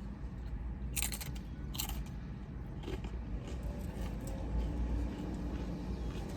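Two crisp crunching bites of crunchy food, about a second in and again just under a second later, followed by quieter chewing, over a steady low rumble.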